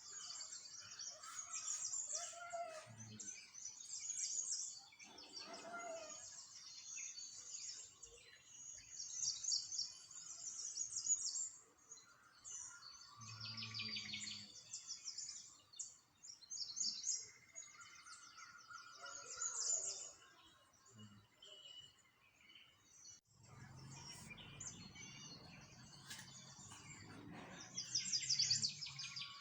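Small songbirds chirping and singing, many quick high trills overlapping one another. A faint low rumble joins in during the last few seconds.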